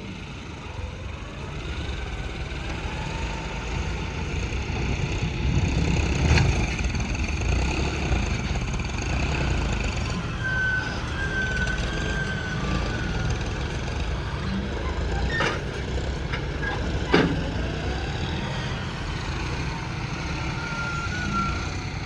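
Heavy diesel machinery running steadily, with three sharp metallic clanks.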